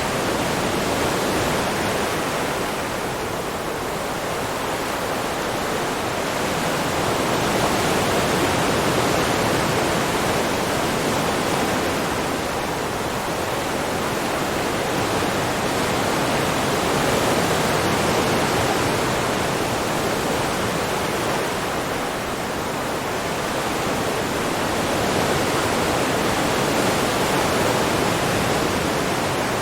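Steady rushing sound of sea water, swelling and easing slowly about every nine seconds.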